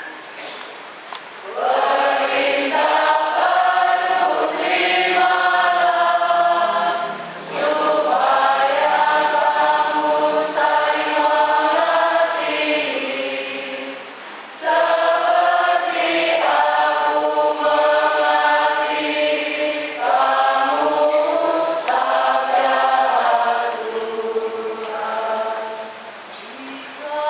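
A choir singing a hymn in long phrases, with short breaks between them.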